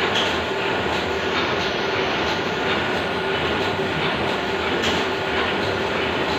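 Machinery running steadily, a continuous mechanical noise with a faint hum through it.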